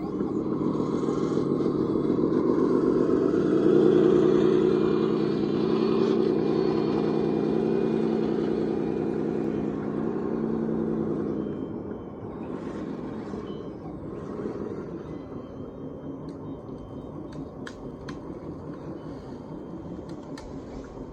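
Radio-controlled scale construction machine running, with a pitched motor whine. The whine is louder for the first half, then eases to a lower, steadier level.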